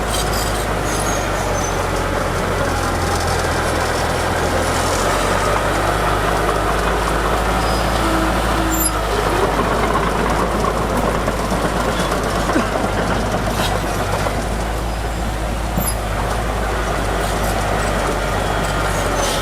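Heavy diesel earthmoving machinery running steadily. The low engine note shifts about five seconds in.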